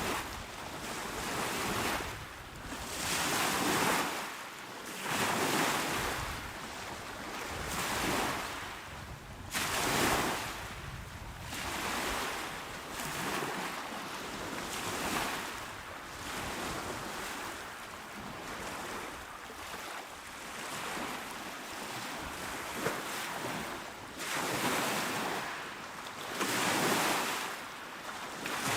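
Calm sea waves breaking and washing onto a shore, one soft surge every couple of seconds swelling and falling away.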